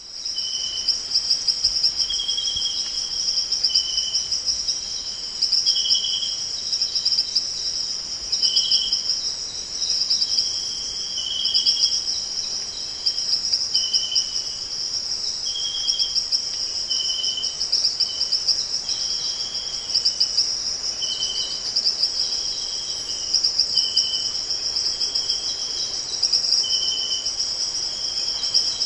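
A steady, high, shrill insect chorus with a fast pulsing texture. Over it, short, even, high notes repeat about once every second or two.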